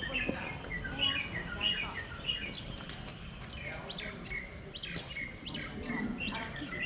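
Small birds chirping, with many short, sharp calls, some sliding quickly down in pitch. The calls come thicker in the second half, over a low background rumble.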